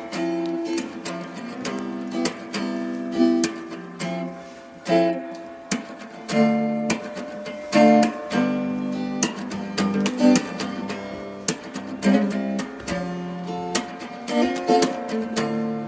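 Background music: acoustic guitar picked and strummed, with chords changing every second or so.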